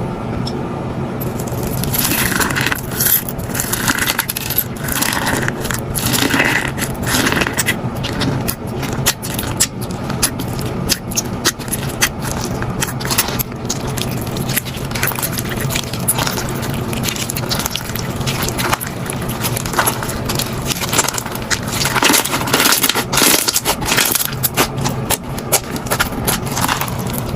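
Bead-filled slime being squished and pressed by hand, giving a dense, irregular crackling and clicking of the beads and pops of the slime. A steady low hum runs underneath.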